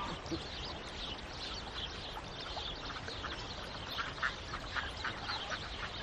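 Short, repeated bird calls over a steady outdoor hiss, coming more often in the second half.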